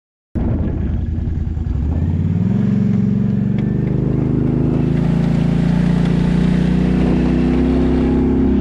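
Can-Am ATV engine accelerating, its note climbing about two seconds in and then holding at a steady high speed, with a rushing hiss building beneath it. The sound starts after a split second of silence.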